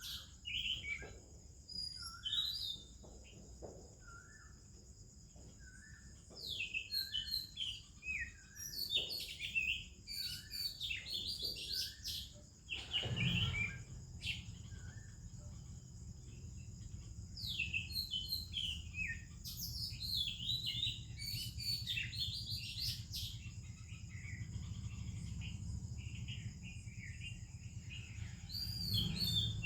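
Oriental magpie-robin and other birds singing in a run of short, varied whistles and chirps, over a steady high-pitched insect drone. A low rumble of background noise comes in about halfway through.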